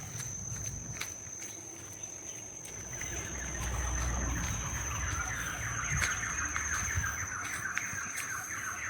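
Birds chirping and twittering in rapid, repeated calls that build up about three seconds in, over a steady high-pitched whine.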